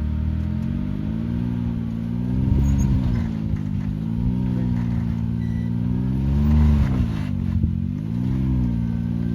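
Can-Am Maverick X3 Max UTV engine, a turbocharged three-cylinder, running under load during a slow rock-crawl climb, its revs swelling and dropping back about four times as the throttle is fed in and eased off; the loudest rise is a little past halfway.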